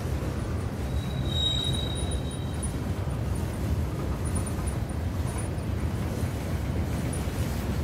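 Freight train boxcars rolling past, a steady rumble of wheels on rails. A high-pitched squeal rings out about a second in and fades after roughly two seconds.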